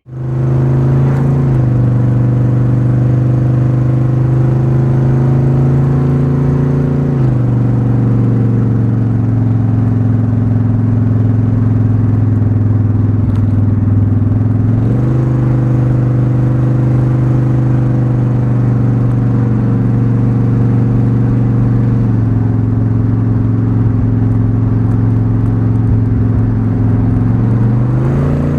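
Carbureted car engine running steadily while the car is driven. Its note drops about seven seconds in, climbs again halfway through, drops again, then rises sharply near the end.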